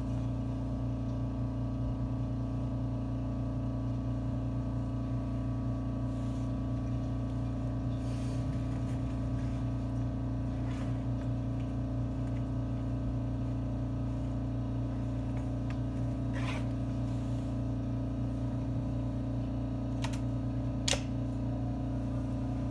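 Steady hum and rumble heard inside a JR 313-series electric train carriage, with a few short sharp clicks near the end.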